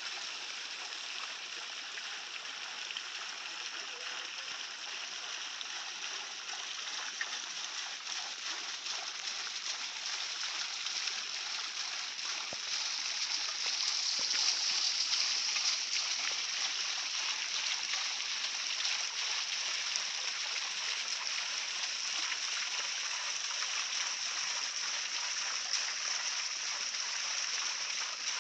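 Mini waterfall spilling into a swimming pool: a steady rush of splashing water that grows a little louder about halfway through.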